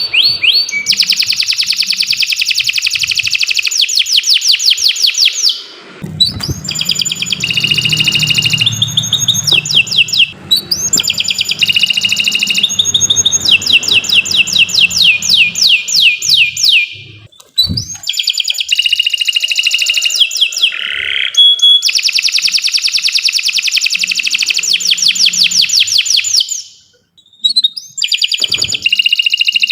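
Domestic canary singing long runs of rapid trills and rolling note series, phrase after phrase with only brief pauses between them.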